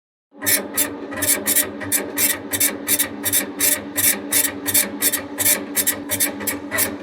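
A small machine running with a steady hum and sharp, regular clicks about three a second; it starts abruptly just after the beginning and stops near the end.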